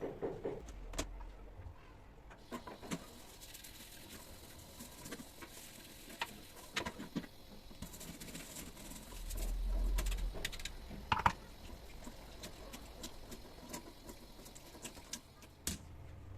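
Sparse small clicks and knocks of objects being handled at a kitchen sink, with a brief low rumble near the middle and a sharper knock just after it.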